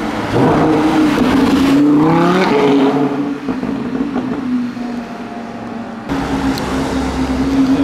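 Lamborghini Huracán's V10 engine accelerating away, its note rising in pitch for about two seconds, then dropping and fading as the car pulls off. About six seconds in it turns suddenly louder again with a steady engine note.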